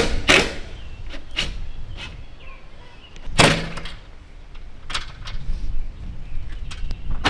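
Metal barn doors and latches knocking and banging: a handful of separate sharp knocks, the loudest about three and a half seconds in, with a short low ring after it.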